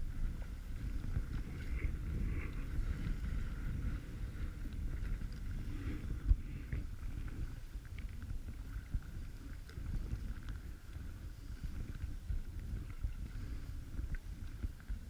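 Kayak paddling on a lake, with wind rumbling on the microphone and small splashes and ticks from the paddle and hull. There is one sharper knock about six seconds in.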